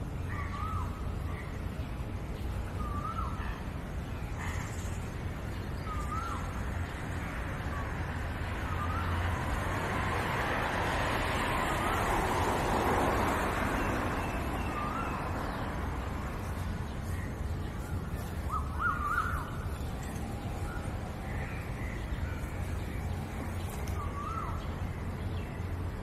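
A bird giving a short, hooked call every few seconds, over a steady low rumble. About halfway through, a broad rush of noise swells and fades.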